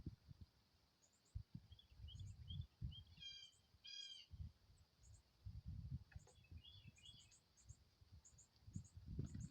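Birds calling: two short harsh calls with several pitches stacked together, about three and four seconds in, over small high chirps scattered throughout. Low rumbles come and go underneath.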